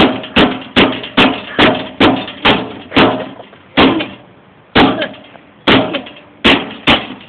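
Repeated hammer blows striking a microwave oven. The blows come fast, about two and a half a second, then slow to roughly one a second with short pauses.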